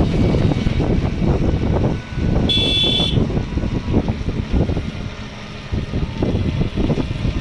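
Road vehicle travelling, a steady low rumble with wind buffeting the microphone, and a short high beep about two and a half seconds in.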